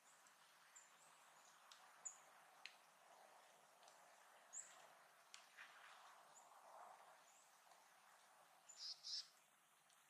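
Faint, scattered short high bird chirps over a soft outdoor hiss, with two louder chirps close together near the end.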